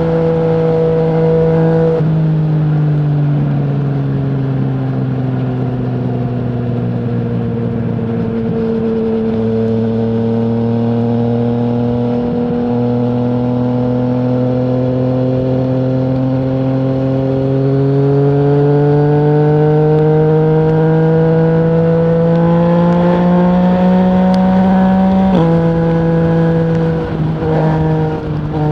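2020 Yamaha MT-09's 847 cc inline three-cylinder engine through an Akrapovic full-system exhaust with no dB killer, under way. The engine note eases slightly and then climbs slowly for many seconds. It drops suddenly in pitch twice, about two seconds in and near the end, as the rider shifts up.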